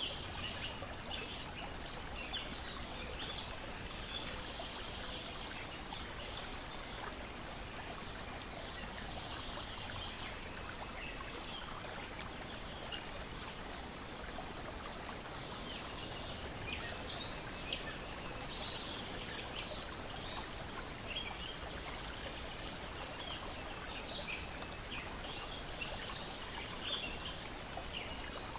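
Lake water lapping and splashing in a steady wash, with a wood fire crackling in short sharp pops throughout. Small birds chirp now and then, with brief high twitters about a third of the way in and again near the end.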